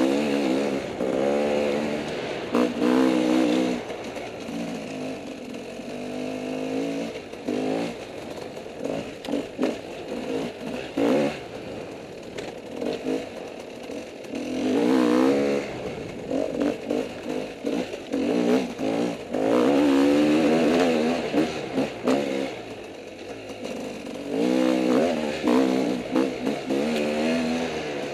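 Off-road motorcycle engine working through a rough dirt trail, its pitch rising and falling with the throttle. It surges louder several times.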